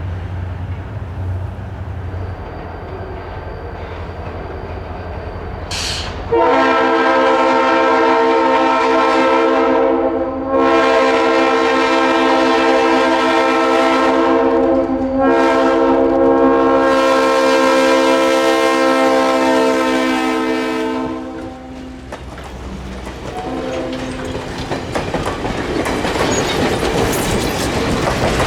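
An EMD GP30 diesel locomotive's Leslie RS3L air horn sounds three long blasts, with a brief note after them, over the low rumble of the approaching diesel. Near the end the train's wheels clack over the rail joints as it passes, getting louder.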